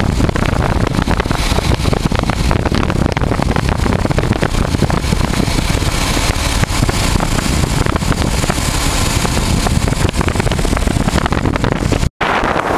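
Riding noise from a 1988 Honda Transalp on the move: wind buffeting the microphone over the note of its V-twin engine. The sound cuts out for an instant near the end.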